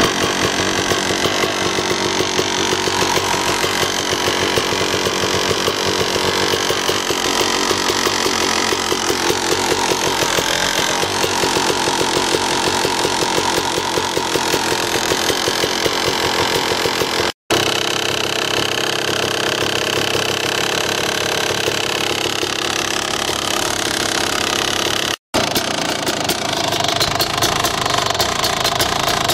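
Two-stroke single-cylinder engine of a 2004 Kawasaki KX250 motocross bike running steadily, with two brief cut-outs to silence about two thirds of the way through and near the end.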